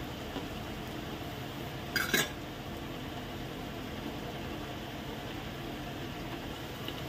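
Chicken seekh kebabs shallow-frying in oil in a nonstick pan, a steady sizzle, with one clink of a slotted metal spatula against the pan about two seconds in.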